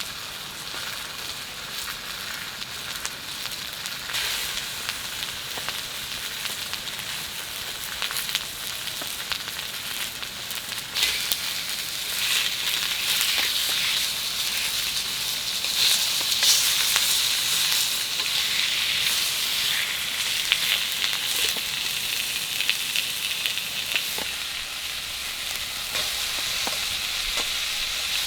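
Food frying in a pan, a steady sizzle with scattered light pops and clicks, growing louder about eleven seconds in.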